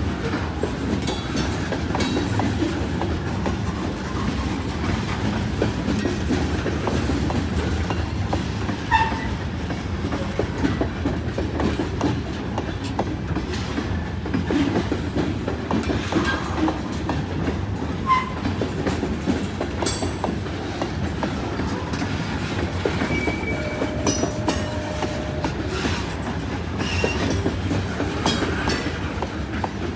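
Freight train cars rolling past, the wheels clacking steadily over rail joints, with a few short wheel squeals along the way.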